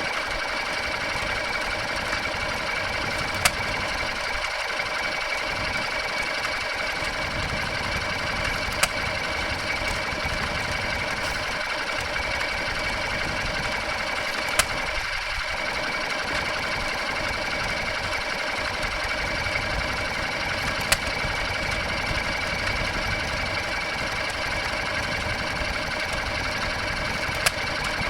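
Wolseley WD2 single-cylinder stationary engine running steadily while driving a water pump, with a brief sharp click about every five to six seconds.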